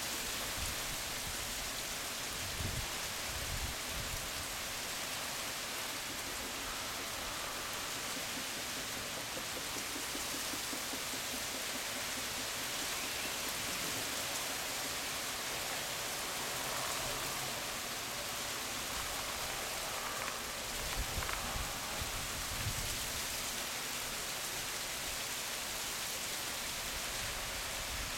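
Steady rain falling in a lake-effect shower, an even hiss throughout. A few low rumbles of wind on the microphone come through near the start and again about two-thirds of the way in.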